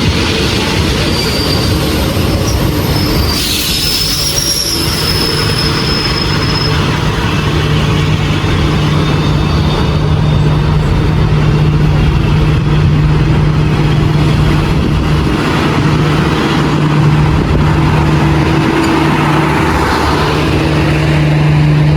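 Train running on the rails, with thin high-pitched wheel squeals in the first few seconds and a steady low hum from about a third of the way in.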